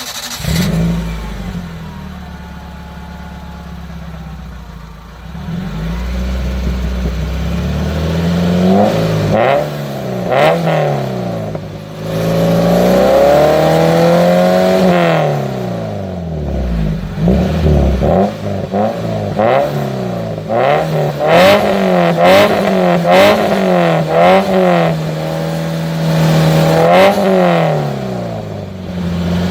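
Maruti Suzuki Gypsy's engine idling steadily at first, then revved repeatedly, the pitch climbing and dropping back in a string of quick blips and a few longer pulls.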